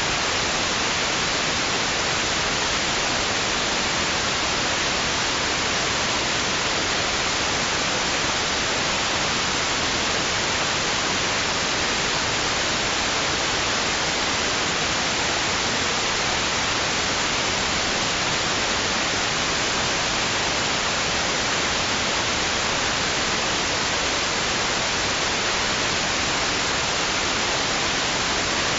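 Steady white noise for lulling a baby to sleep: an even, unbroken hiss, brightest in the treble, that never rises or falls.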